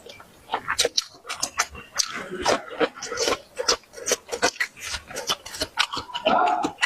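Close-miked eating sounds: chewing and lip-smacking, with irregular wet clicks several times a second and a louder burst near the end.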